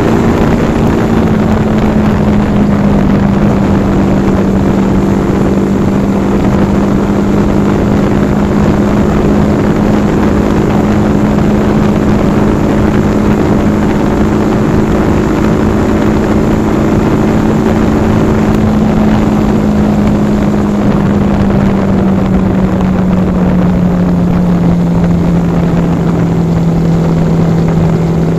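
Yamaha R15 V4's 155 cc single-cylinder engine running steadily at cruising speed, with a strong rushing of wind and road noise. The engine note holds level and then drops gradually near the end as the bike eases off.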